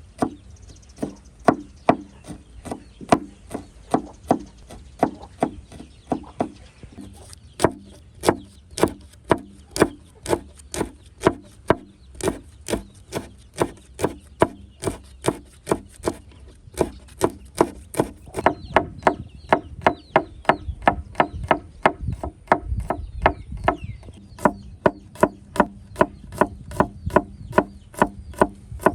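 Knife or cleaver chopping on a wooden cutting board in a steady rhythm, about two strokes a second, a little quicker in the second half.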